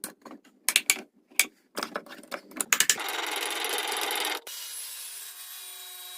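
Wood being handled, with a run of sharp knocks and clicks. Then comes about a second and a half of loud rasping as wood rubs along wood. It ends abruptly, leaving a quieter steady hum with a few faint tones.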